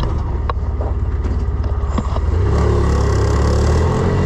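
Ranger side-by-side utility vehicle engine running steadily, its pitch rising a little in the second half as it picks up speed.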